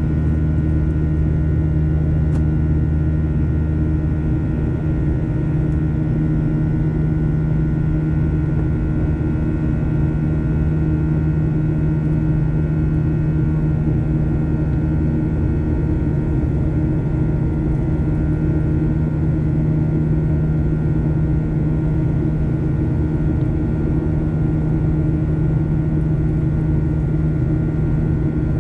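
Steady cabin drone of a Boeing 737-900ER's CFM56-7B jet engines and airflow, heard from inside the passenger cabin. Several constant tones ride over the noise, and a deeper hum fades out about four seconds in.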